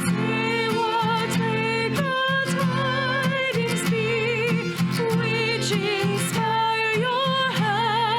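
Live worship music: a solo voice sings held notes with vibrato over guitar accompaniment and sustained low chords.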